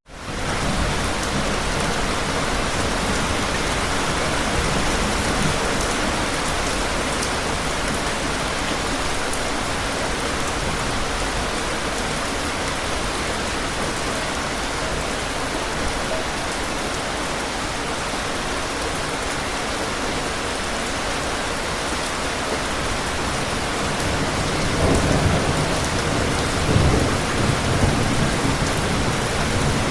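Steady heavy rain falling, a dense even hiss of drops, after a brief dropout at the very start. Near the end low rumbles of thunder swell under the rain.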